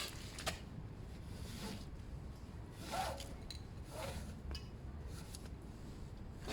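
Plastic cable ties being pulled tight by hand: a few short rasping zips with small clicks, spaced about a second apart.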